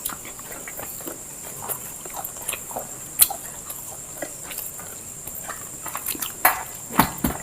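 Close-up eating sounds of biryani being chewed: wet chewing and lip-smacking in irregular clicks, with a few sharper smacks near the end.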